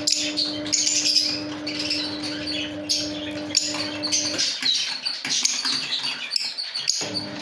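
Lovebirds chirping and squawking in quick, overlapping calls, as from several birds kept together. Under them a steady low hum runs and cuts off about four and a half seconds in.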